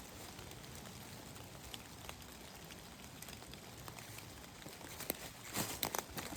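Faint outdoor woods background, then about five and a half seconds in a run of crackling, crunching footsteps through dry leaves and twigs.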